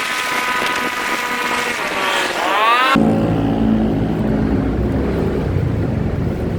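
Motorcycle engine running, its pitch climbing steeply as it revs up; about three seconds in the sound switches abruptly to a heavier, lower engine and road rumble.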